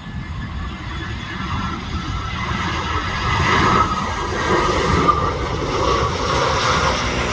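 Jet airliner on landing approach: a steady engine roar with a low rumble, building in loudness over the first half and then holding.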